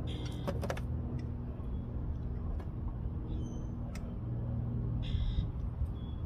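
Oil filter on a Mercedes-Benz Sprinter van being unscrewed by hand: a few clicks near the start and two short squeaks, one near the start and one about five seconds in, over a steady low hum.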